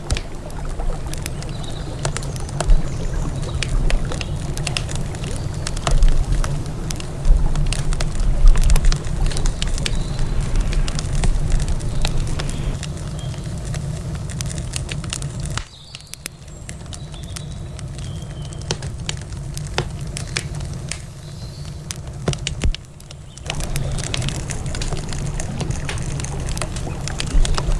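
Campfire crackling, with sharp pops scattered irregularly throughout, over a low steady rumble. The rumble drops out for several seconds in the middle, leaving the crackle thinner, then returns.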